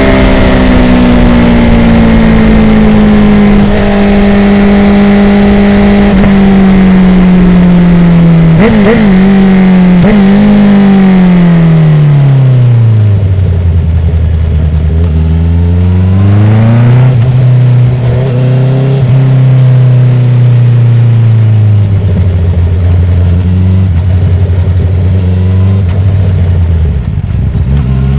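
2019 Honda CB650R's inline-four engine through a full Akrapovic titanium exhaust with the dB killer removed, heard while riding. The engine note sinks slowly, drops steeply about halfway through as the revs come down, climbs briefly, holds low and steady, then dips and rises again near the end.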